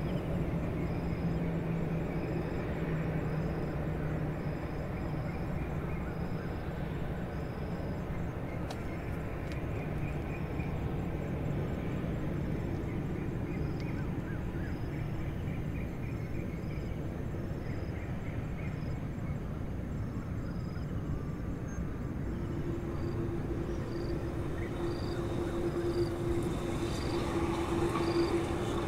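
Boeing 767 jet engines running at a distance: a steady low rumble. A steady hum comes in about two-thirds of the way through, and the sound grows louder near the end.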